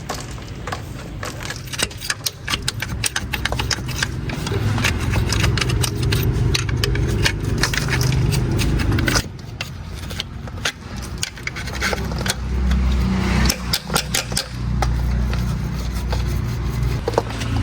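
Repair work on the car: rapid metallic clicks, knocks and scrapes over a low hum, which drops out for a few seconds about halfway through and then returns.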